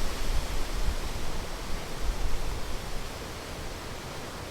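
Rhine Falls waterfall rushing: a steady, dense wash of water noise, with an uneven low rumble over the first three seconds that then settles.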